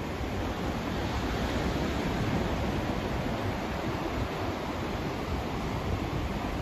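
Steady white noise: an even, unchanging rushing hiss with most of its weight in the low end.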